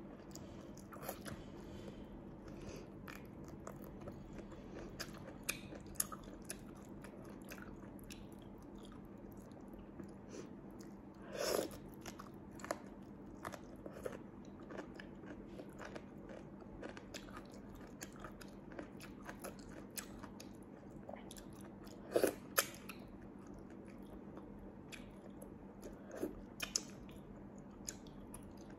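Close-up chewing and biting: a chili-dipped cabbage leaf, then small sea snails eaten by hand, with many soft mouth clicks and a few louder bites about 11, 22 and 27 seconds in.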